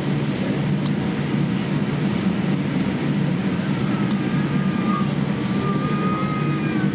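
Steady low rumble of a moving vehicle heard from inside, with a faint thin whistle wavering in the second half.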